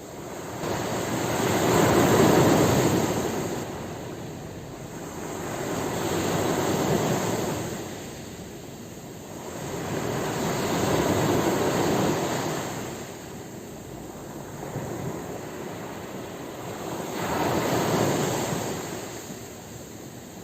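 Ocean waves breaking and washing on a shore, four slow swells of surf noise that rise and fall every four to five seconds, the first the loudest.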